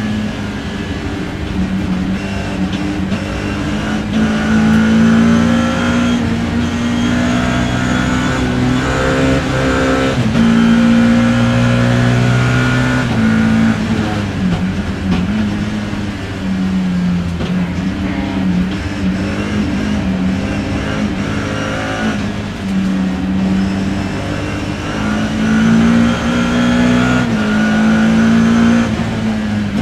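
BMW E30 M3 race car's four-cylinder engine heard from inside the cockpit, its pitch climbing and dropping again and again as it revs through the gears, over a steady hiss.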